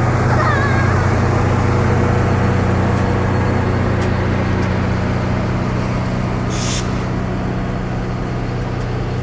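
Passenger train rolling slowly past with a steady low hum, and a short hiss about two-thirds of the way through.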